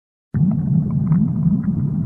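Insects buzzing close by, a steady low drone whose pitch wavers up and down, starting suddenly about a third of a second in.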